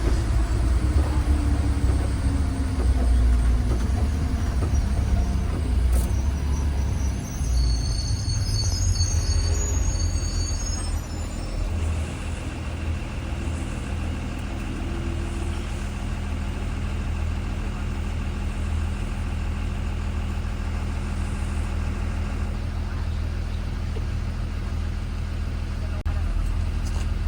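Interior of a 2020 Blue Bird Vision school bus on the move: the engine's low rumble and road noise, with the engine note falling as the bus slows. A brief high squeal comes about eight seconds in. After about twelve seconds it settles into a quieter, steady engine hum.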